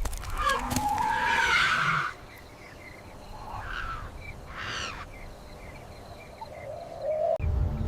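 Wild animal calls, loudest and wavering over the first two seconds, then fainter chirping and a few short calls. A low rumble comes in near the end.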